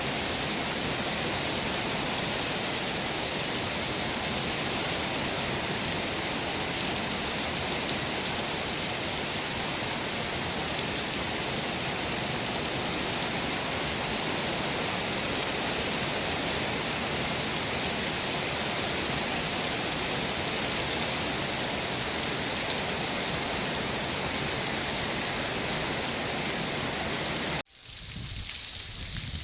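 Heavy storm rain falling steadily in a dense, even hiss. Near the end it breaks off abruptly, then comes back thinner.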